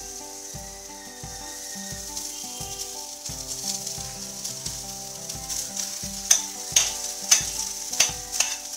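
Oil sizzling in a wok as cooked rice is tipped in over fried peanuts and tempering spices. From about six seconds in come several sharp metallic knocks as the steel pot is tapped over the wok to free the last rice. Faint steady background music plays underneath.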